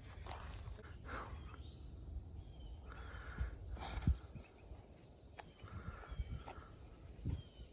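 Outdoor background of wind noise with a few short bird chirps and scattered knocks or steps.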